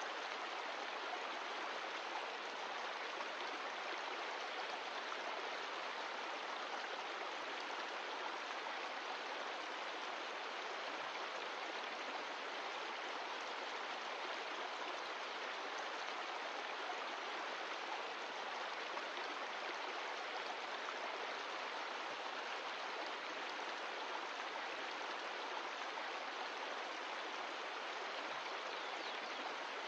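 Mountain stream of glacial meltwater rushing steadily over rocks.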